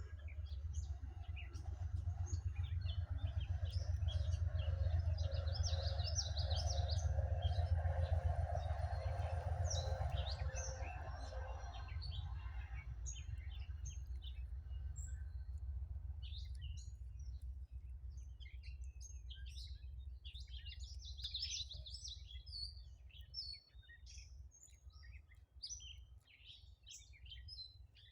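Train passing: a low rumble that builds over the first few seconds, peaks, then fades away over the second half. Small birds chirp and sing throughout.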